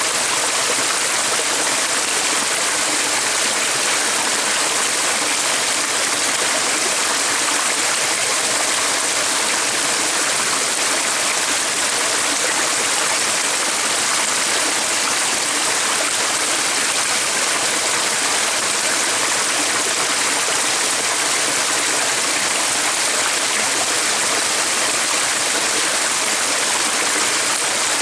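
Flowing stream: a steady, even rush of running water with no breaks or changes.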